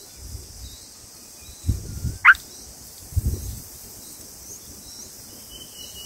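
A single short bird call, falling steeply in pitch, about two seconds in, with faint high chirps in the background and a few low rumbles before and after it.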